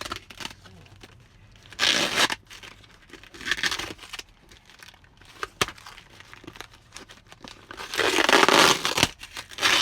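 Packaging of a shipping box being torn open and crinkled in several short bursts, with a few sharp clicks between them; the longest and loudest tearing comes near the end.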